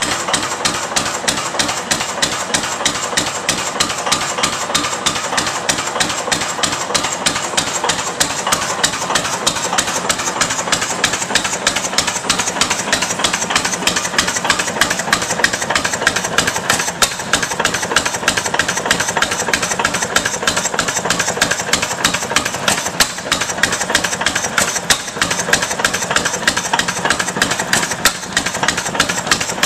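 6 1/2 HP Ruston Hornsby hit-and-miss gas engine running, a steady rapid mechanical clatter of closely spaced knocks.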